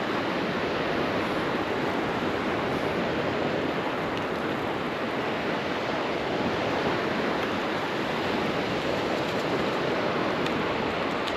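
Steady rushing noise of surf washing on a sandy beach, even and unbroken.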